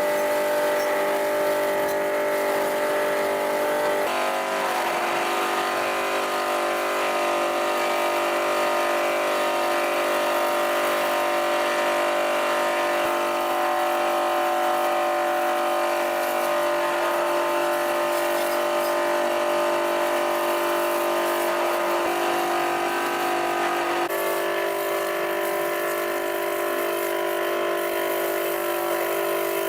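A motor running steadily with a humming whine, its pitch and tone shifting twice: once a few seconds in and again about two-thirds of the way through.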